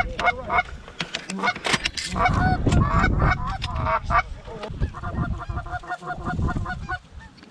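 Geese honking, many calls overlapping one another; near the end, a fast run of short clucking honks, about six a second.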